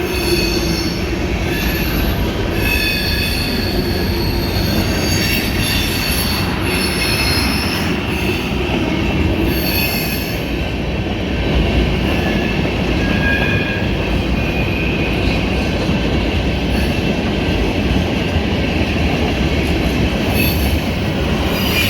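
Freight cars of a long train rolling past at speed: a steady rumble of steel wheels on rail, with high-pitched wheel squeal coming and going throughout.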